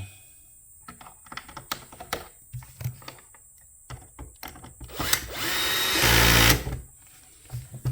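Cordless drill-driver run briefly, driving a screw home for about a second and a half near the middle, set to a low clutch setting. Light clicks and taps of handling parts come before it.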